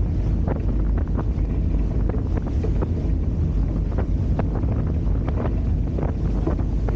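Wind buffeting the camera microphone on a Hobie Tiger F18 catamaran under sail, a steady low rumble. Water splashes and slaps against the hulls in frequent, irregular short hits.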